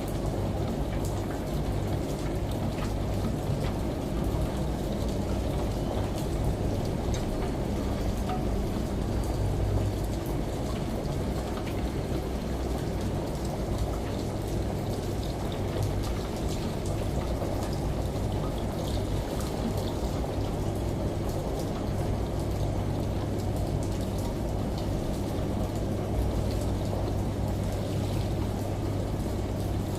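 Steady rain and running shower water, layered over a washing machine's low, steady hum.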